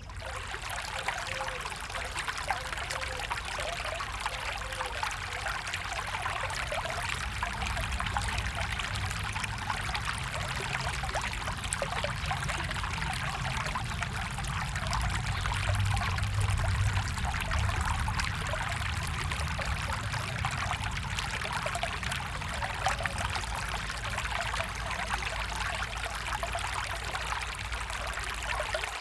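Stream water flowing and trickling steadily, with a low rumble underneath.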